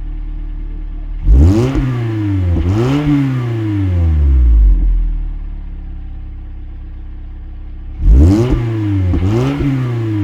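Toyota RAV4's 2.5-litre four-cylinder idling through an aFe Takeda axle-back exhaust, then blipped in two quick revs about a second in and two more near the end, each rev rising sharply and falling back to idle.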